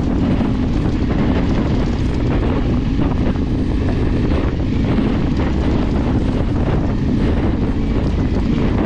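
Off-road motorcycle riding along, engine running steadily under wind rushing over the microphone.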